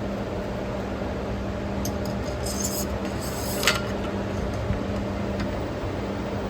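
Faint scrapes and a few light clicks of metal parts being handled as the water pump base housing is worked down over the gearcase studs, the sharpest click a little past halfway, over a steady background hum.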